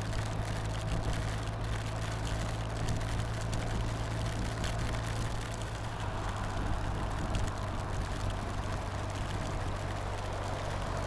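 Motorcycle engine running at a steady, unchanging pitch, under a constant hiss of heavy rain and wind on the move.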